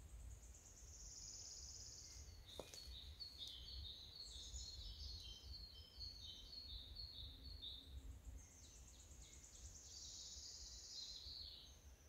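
Songbirds singing faintly: a high rapid trill about a second in, then a run of short chirping notes, and another long trill near the end, over a low steady rumble.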